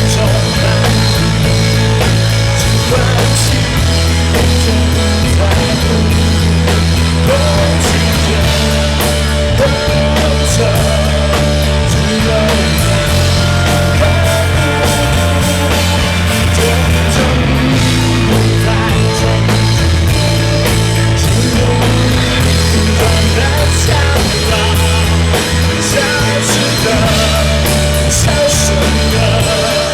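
Live band playing a rock song, with a heavy bass line and drums, loud throughout. The compact camera's recording sounds rough and distorted.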